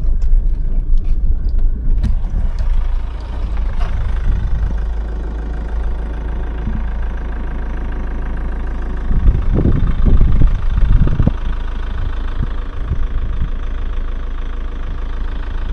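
A car driving slowly: a steady engine hum over low road rumble, with a run of heavy low thumps about nine to eleven seconds in.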